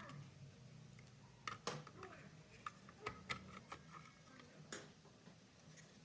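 A few light, irregular clicks and knocks, as of small hard parts being handled, over a faint low hum.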